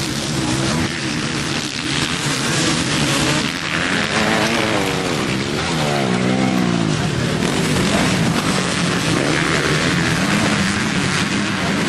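Motocross bikes racing, their engines revving hard over a dense wash of engine noise. About four seconds in, one engine's note climbs and falls several times as the rider works the throttle.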